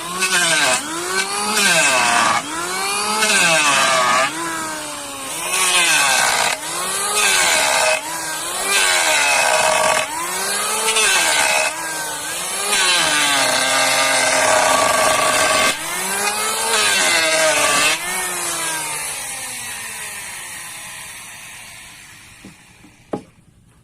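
A saw cutting through a plastic drum in repeated back-and-forth strokes, each stroke ringing with a pitch that rises and falls. The strokes stop about 18 s in, and a hum fades away afterwards, with a single click near the end.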